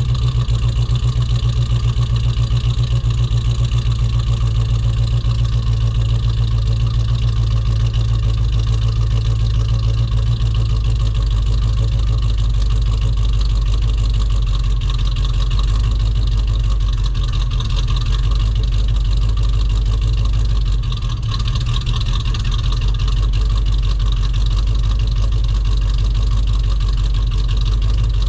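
Chevrolet S10's swapped-in 350 V8 idling with a loud, steady pulsing, a bit rough because it has not yet been fully tuned. The level briefly drops about three-quarters of the way through.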